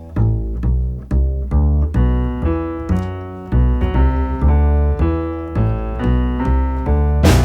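Jazz trio music: a plucked double bass line, joined by piano chords about two seconds in, with the drum kit coming in on a cymbal crash at the very end.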